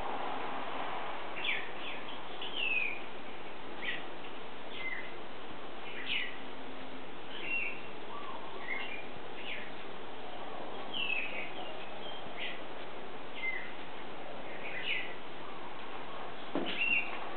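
Birds chirping: short high calls, several sliding down in pitch, about one a second over a steady background hiss, with a brief knock near the end.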